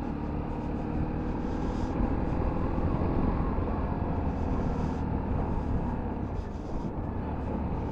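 125cc motorcycle running steadily while being ridden, its engine hum and road noise even throughout.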